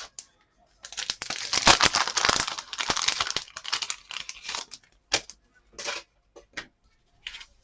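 Crinkling and rustling of crafting paper and packaging being handled for about four seconds, followed by a few short separate rustles and taps.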